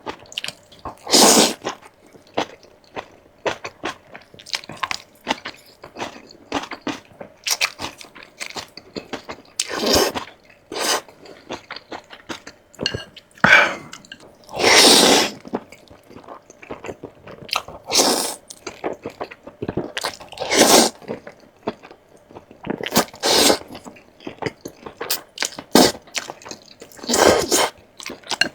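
A person eating close to the microphone: steady chewing with crisp crunches, and a louder burst every few seconds.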